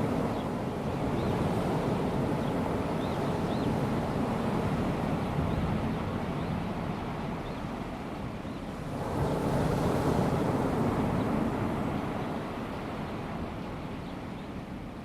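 Gentle waves of a calm sea lapping and washing on a sandy beach. A wave washes in more loudly about nine seconds in, then the wash eases off.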